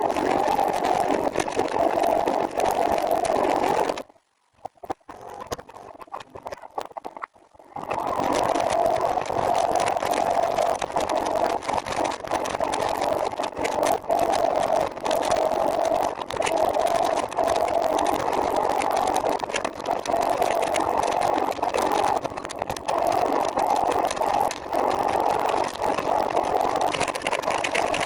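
Steady rolling noise from a moving ride, a rushing haze of wind and road noise. It drops out almost completely about four seconds in, then returns about four seconds later.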